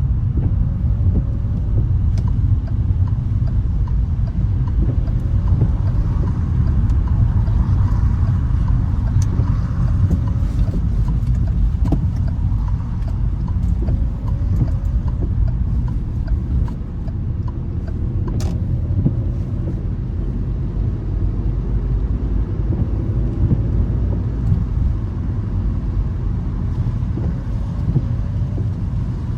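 A car driving on a wet road: a steady low rumble of tyres and engine, with faint scattered ticks and one sharp click about eighteen seconds in.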